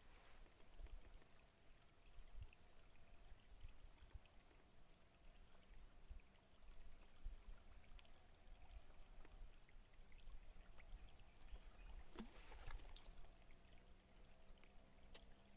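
Faint outdoor ambience: a steady high-pitched insect drone over a low wind rumble on the microphone, with a few faint clicks and a brief faint sweep near the end.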